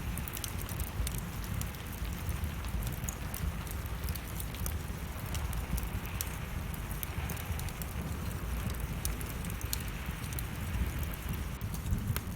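Wood fire crackling in a fireplace: irregular sharp pops and snaps throughout, over a steady low rumble and a hiss of falling rain.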